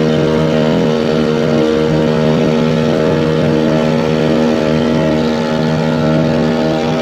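A small boat's freshly tuned engine running steadily at speed, its pitch holding nearly level apart from a slight wobble about a second in.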